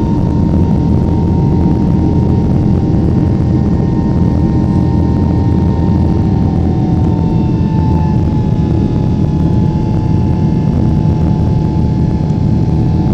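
Cabin noise of a Boeing 777-300ER in flight: its GE90-115B turbofans running steadily under a loud rumble of air, with a thin engine whine that drops slightly in pitch about halfway through.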